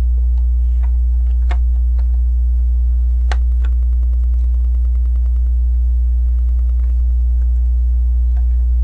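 Small plastic clicks and taps of LEGO bricks being handled and pressed together, a few sharper clicks among them and a quick run of faint ticks a few seconds in. A steady low electrical hum runs underneath and is the loudest sound.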